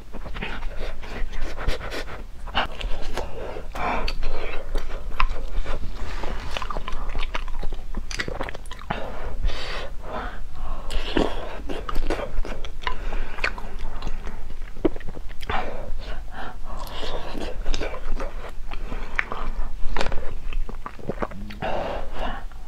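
Close-miked eating sounds from hotpot food: continuous chewing and biting, with many short, wet clicks and crunches.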